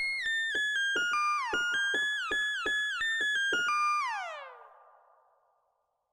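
Analog Eurorack synthesizer oscillator playing a rapid run of short notes at stepping pitches. Each note's pitch swoops downward because the envelope is patched into the oscillator's exponential FM input. About four seconds in the run stops, and the last note glides down in pitch and fades away.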